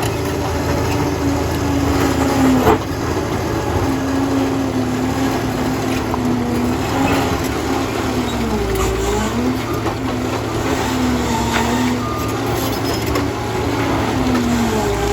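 Liebherr PR 746 crawler dozer's diesel engine running under working load, its pitch dipping and rising several times as the load changes. A single sharp knock comes about three seconds in.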